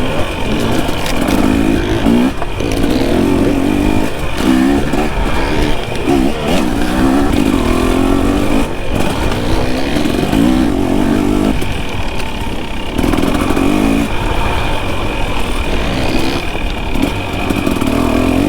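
Dirt bike engine being ridden along a trail, revving up and down again and again as the throttle is worked.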